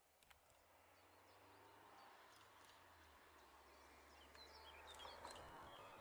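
Near silence: faint outdoor ambience slowly growing louder, with a low steady hum that stops near the end and a few faint bird chirps in the last couple of seconds.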